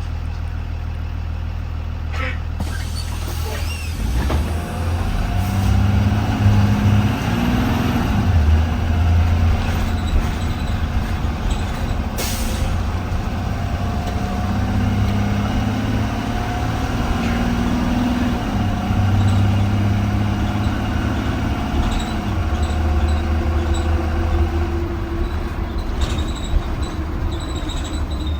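2020 Blue Bird Vision school bus driving, heard from inside the bus. The engine's pitch rises and drops several times as it pulls and shifts, with a brief hiss of air around the middle.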